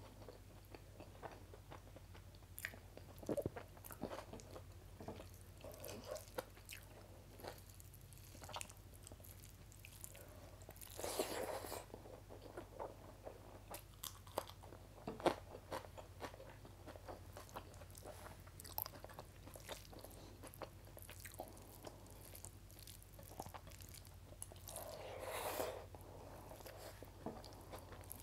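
Close-miked mouth sounds of a person eating rice, yogurt curry and pakoras by hand: chewing with many small clicks and crunchy bites throughout, and twice a louder stretch lasting about a second.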